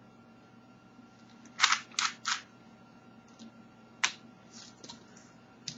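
Sharp plastic clicks and taps from speed cubes being handled: three quick clicks about one and a half seconds in, then a single louder click around four seconds, with a few fainter ticks between.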